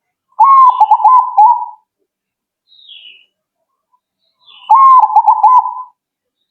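Perkutut (zebra dove) singing: two phrases of quick, stuttering coos, each about a second and a half long, the first starting near the beginning and the second about four and a half seconds in. A faint, short, higher chirp falls between them.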